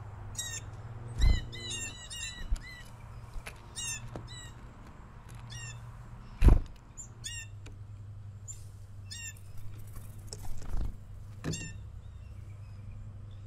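Songbirds at a feeder giving short call notes in repeated runs. Two sharp knocks stand out, one about a second in and a louder one near the middle.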